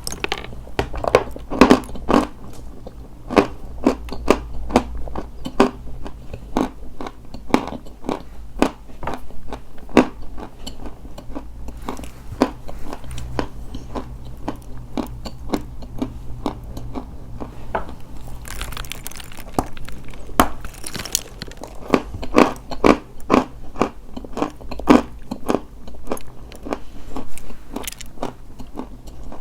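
Dry white chalk being bitten and chewed close to the microphone: a dense, irregular run of crisp crunches, with louder bites every second or so.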